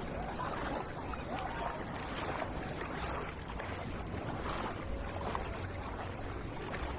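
Beach ambience: a steady wash of sea and wind noise over a constant low rumble, with faint distant voices.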